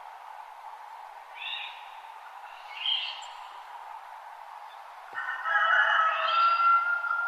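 Songbirds calling at dawn over a steady background hiss: two short chirps, then about five seconds in a louder, longer song that ends on a held whistled note.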